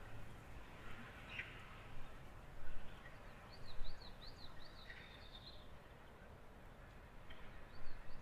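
A small songbird singing a quick run of thin, high, repeated notes, about four a second, twice, over faint outdoor background noise. A few short soft noises come in between.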